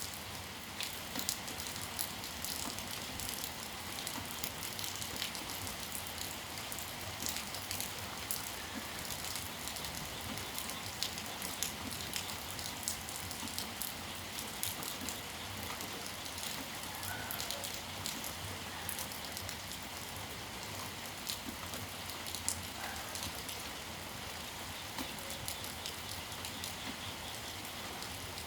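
Steady rain falling, with many individual drops ticking and splashing on nearby surfaces over a continuous hiss.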